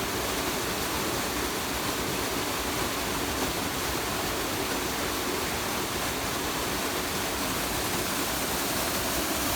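Steady rushing of a rainforest waterfall, an even roar of falling water that does not change.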